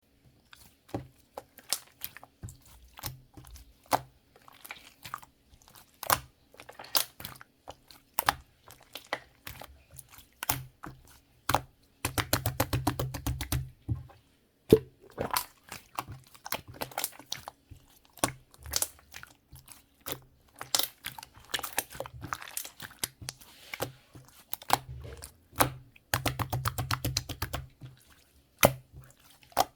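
Crunchy food being bitten and chewed close to the microphone: irregular sharp crunches, with two spells of fast, dense crunching, one about twelve seconds in and one about twenty-six seconds in.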